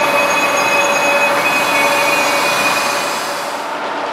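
Express train's passenger coaches rolling slowly through the station, with a steady high-pitched squeal from the wheels over the rolling noise; the squeal fades near the end.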